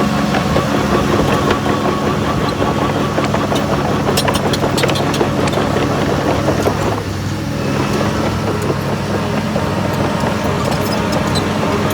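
Heavy diesel earthmoving machinery running steadily, with scattered sharp metallic clicks and clanks about four to five seconds in and again near the end. The engine note dips briefly about seven seconds in.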